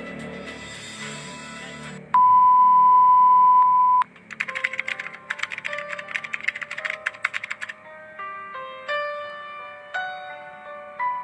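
A loud steady beep lasting about two seconds, then about three seconds of rapid keyboard-typing clicks, then slow piano notes from an edited soundtrack.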